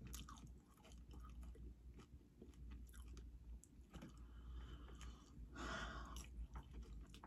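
Faint chewing and crunching of nacho tortilla chips, with small crisp clicks throughout and a louder crunch near the end as another chip is bitten.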